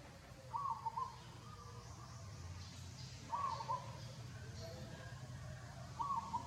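A bird calling three times, each a short two-note call, about every three seconds, over a steady low background rumble.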